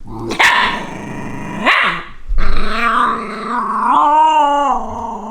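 Shiba Inu growling and whining in a grumbling 'woo-woo' manner, ending in a wavering, drawn-out whine about four seconds in.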